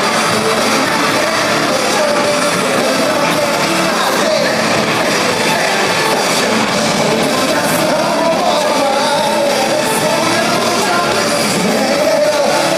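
Loud live pop concert music with a singer's voice carried over it.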